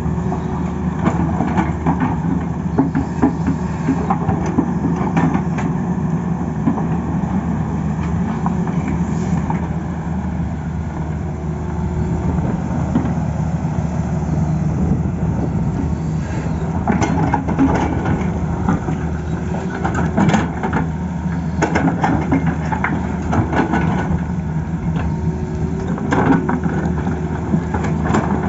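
Tata Hitachi excavator's diesel engine running steadily, with scattered knocks, more of them after about sixteen seconds in.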